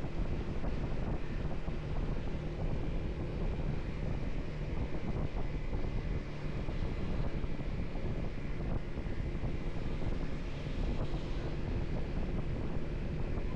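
Wind rushing over the microphone of a moving motorcycle, with the motorcycle's engine and road noise running steadily underneath.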